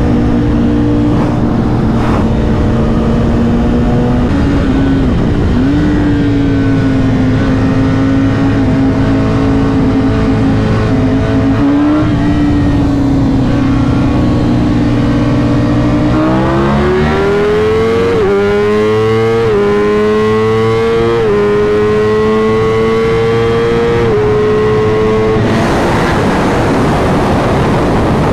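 Sport-bike engine heard from on board during a roll race: about sixteen seconds of steady cruising, then wide-open throttle with the engine note climbing through four quick upshifts, each dropping the pitch briefly. Near the end the throttle closes and wind rush takes over.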